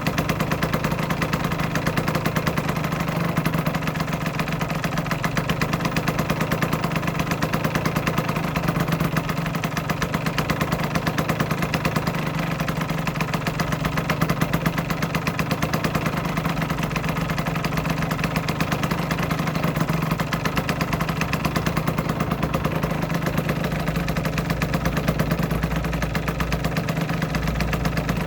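2008 Aprilia RS125's single-cylinder two-stroke engine idling steadily, with an even rapid pulse and no revving.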